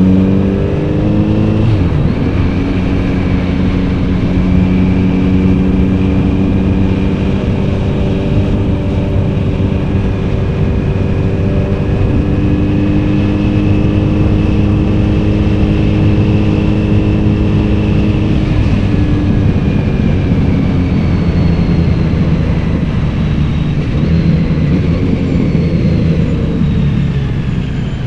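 Kawasaki Z900RS inline-four exhaust while riding: the engine note changes pitch about two seconds in, holds steady at cruising revs, then falls as the throttle eases off after about twenty seconds.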